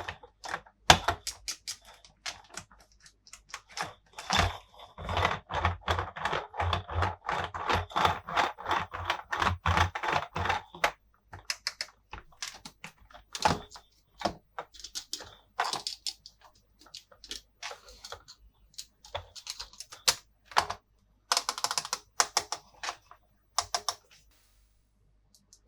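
Small plastic toy pieces and accessories being handled, tapped and clicked together, with a dense run of rapid clicking and rattling in the first half, then scattered single clicks and taps.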